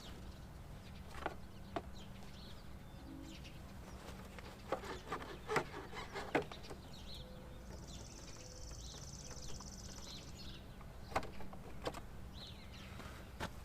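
Birds chirping, with one fast, high trilling call from about eight to ten and a half seconds in, over a faint steady low hum.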